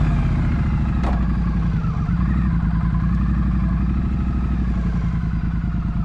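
Triumph Street Twin 900's parallel-twin engine running steadily, with a single sharp click about a second in.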